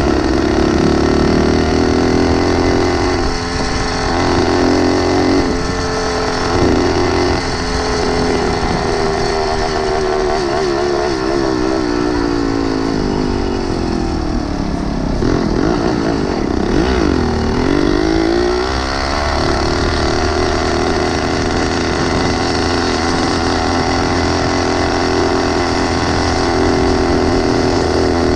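Small engine of a motorized bicycle running under way, its pitch rising and falling with the throttle; around the middle it dips and swings up and down several times before steadying again.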